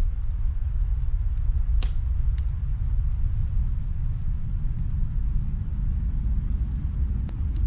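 Fireplace crackling: scattered small wood crackles, with one louder pop about two seconds in, over a steady deep rumble.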